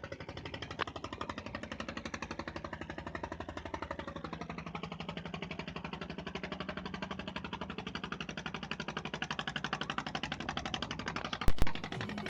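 An engine running steadily with a fast, even knocking beat. Two loud bangs come close together just before the end.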